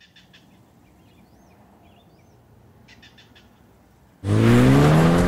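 Birds chirping faintly over quiet open-air countryside ambience: a few quick chirp trills and two rising-and-falling whistled calls. About four seconds in, loud music cuts in abruptly.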